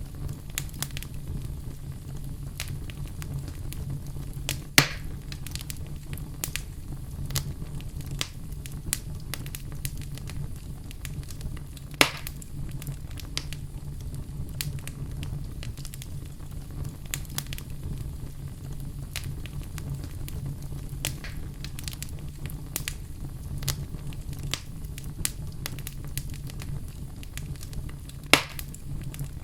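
Fire burning in a fireplace: steady crackling over a low rumble of flame, with three loud sharp pops, about five, twelve and twenty-eight seconds in.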